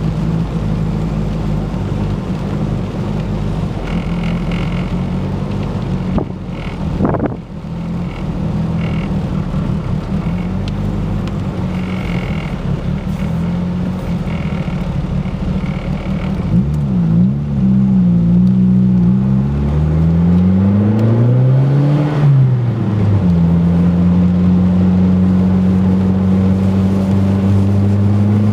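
Turbocharged Ford Focus four-cylinder engine running, its note choppy and uneven at first. About halfway through, the revs rise and fall a few times, then hold steady and start climbing near the end. The owner suspects a misfire, with a bad idle and a miss under boost that a new coil pack has not cured, and blames either the plug wires or the cylinder 2 fuel injector.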